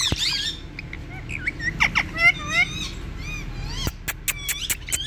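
Pet parrots, an Indian ringneck parakeet and a lovebird, chirping and squawking in quick, pitch-gliding calls. About four seconds in there is a short run of sharp clicks.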